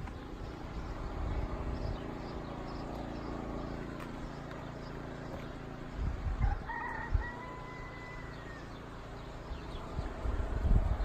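A rooster crowing once, a few short notes then a long held final note, over a steady low rumble of wind on the microphone.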